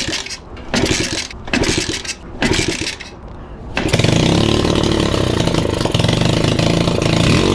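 125cc pit bike engine being kick-started with the choke on: four quick kicks, each turning it over briefly, then it catches just under four seconds in and keeps running steadily on a cold start.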